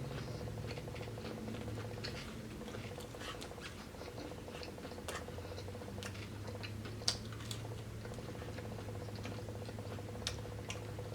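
Close-up eating of fried chicken livers: irregular small crunches and wet mouth clicks of chewing, over a steady low hum.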